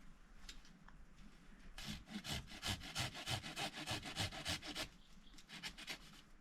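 Wood being sawn by hand in quick, even rasping strokes, about six a second, for some three seconds, followed by a few fainter strokes near the end.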